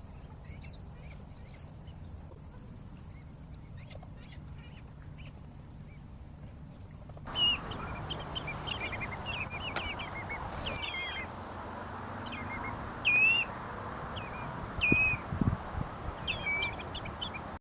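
Wading birds calling: short, clipped calls repeated a dozen or so times, faint at first and louder from about seven seconds in, over a steady low background rumble.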